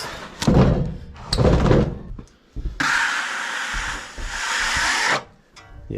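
Freshly sawn maple boards being handled: a few knocks and scrapes, then a steady rubbing hiss of about two and a half seconds, like a hand or board sweeping across the rough-sawn surface, that stops abruptly.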